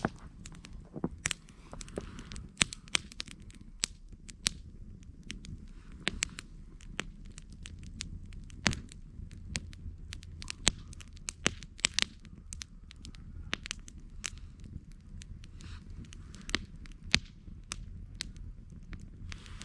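Wood campfire crackling, with irregular sharp pops and snaps over a steady low hum.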